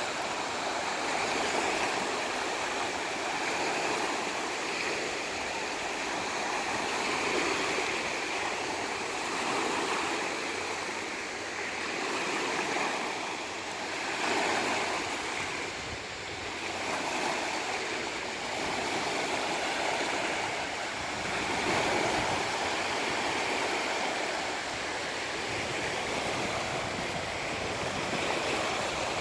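Sea waves washing in: a continuous rush of surf that swells and eases every few seconds.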